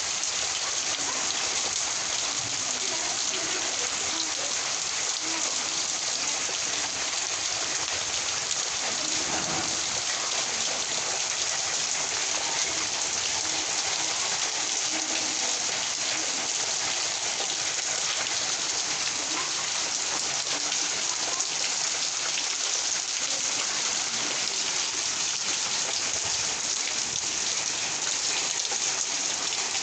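Rain from a kalbaishakhi (nor'wester) storm falling steadily on surfaces, an even hiss of many drops that holds level throughout.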